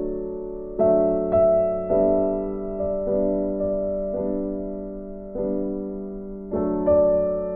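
Background piano music: slow, soft chords struck about once a second, each left to ring and fade.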